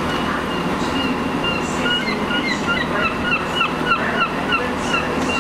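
A train approaching the platform, a steady low rumble under the station's hum. Over it comes a held high tone, then from about two seconds in a run of short, high, downward-bending honks, about three a second, which are the loudest thing heard.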